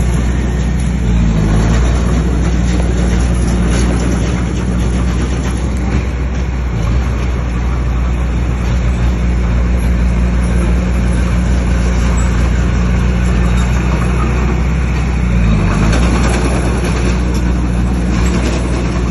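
Bulldozer's diesel engine running hard under load, with a dense clatter and grind over it; its pitch dips and recovers a few times as the load changes.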